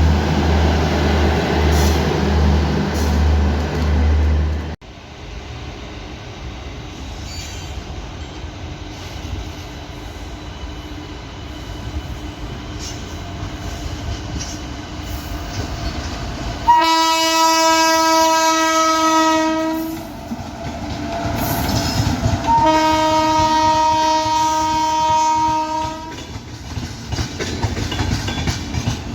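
Indian Railways locomotive horn sounding two long steady blasts, each about three seconds, over the rumble of an arriving train's wheels on the rails. A pulsing low drone cuts off abruptly about five seconds in.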